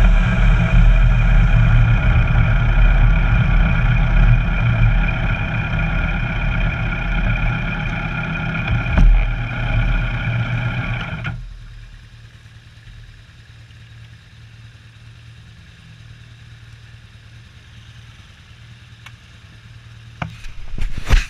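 Kawasaki Versys 1000's inline-four engine running close up as the bike slows and stops, then cutting off abruptly about eleven seconds in. A faint low hum remains, with a few sharp knocks near the end.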